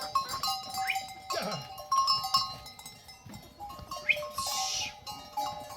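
Livestock bleating, several short calls that fall in pitch, over background music with a slow melody.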